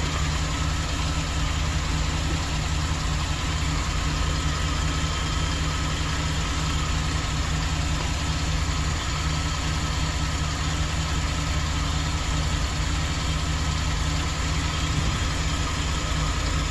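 2008 Chevrolet Express van engine idling steadily; it is being diagnosed for a misfire.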